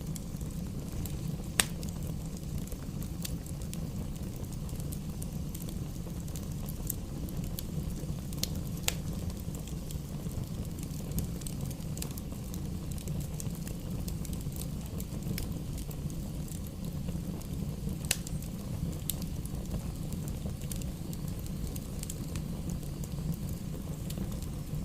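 Campfire burning with a steady low roar and scattered sharp crackles and pops from the burning wood, the loudest about a second and a half in and again about 18 seconds in.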